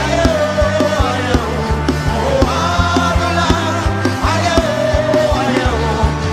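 Live worship band music: a steady drum beat and bass under a held, gliding melody line.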